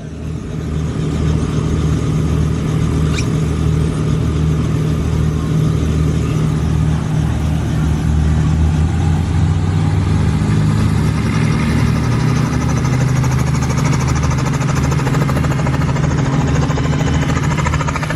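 Tour helicopter running, a loud steady low rotor pulsing with engine noise, its pitch rising slowly from about ten seconds in.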